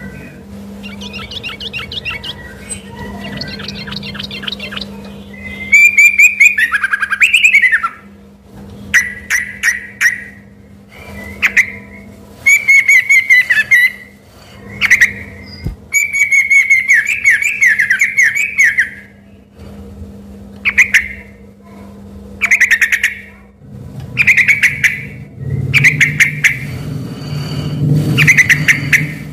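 A trucuk bulbul singing loudly in a long run of short, rapid, warbling phrases with brief pauses between them, in the busy varied style that is often taken for a white-rumped shama (murai batu). A faint steady hum runs underneath, and a low rumble joins near the end.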